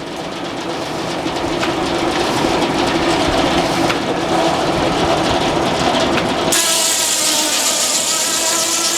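Frick circular sawmill running, with a steady mechanical clatter that grows louder. About six and a half seconds in, the blade goes into the log and a sharp ringing whine of several steady tones sets in.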